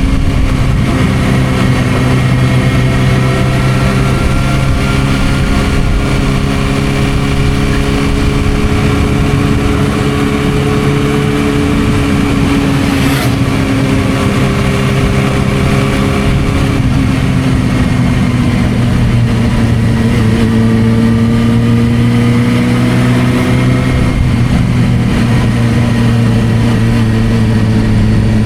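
Suzuki GSR600's inline-four engine running through a Dominator aftermarket exhaust while riding, its note steady and shifting gently in pitch with the throttle. A brief click about halfway through.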